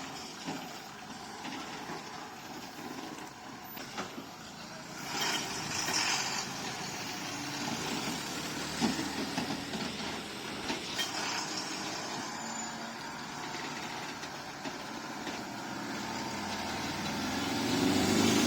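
Truck engine running at idle, with a burst of hiss about five seconds in and the engine sound growing louder near the end.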